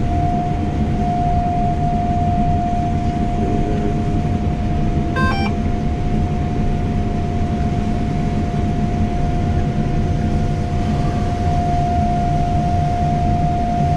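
John Deere 660 combine running steadily while harvesting soybeans: a constant low hum of the engine and threshing machinery with a steady whine over it. A brief higher sound, like a short beep, comes about five seconds in.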